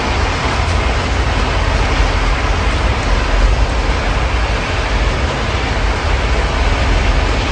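Steady rain falling, heard through an open window, over a low, even rumble of city traffic.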